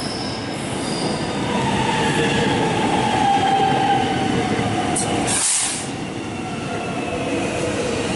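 Alstom X'Trapolis electric suburban train running into the platform, a steady rumble with a whine that slowly falls in pitch as it slows. A short sharp hiss of air about five seconds in.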